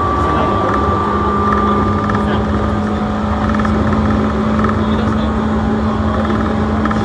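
Seibu Railway electric train running along the line, heard from just behind the driver's cab: steady wheel-on-rail running noise with a steady hum under it.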